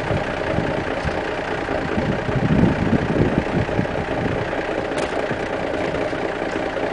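Volvo truck diesel engine idling just after a cold start on a block heater with no ether, a few weeks after it last ran. A brief click sounds about five seconds in.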